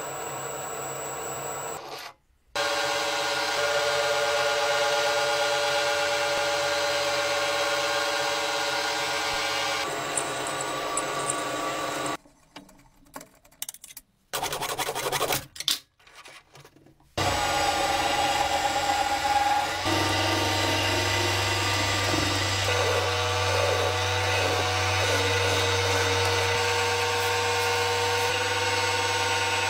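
A power tool running against wood, rubbing and cutting, in several stretches joined by abrupt cuts with short gaps; a steady motor whine runs under each stretch.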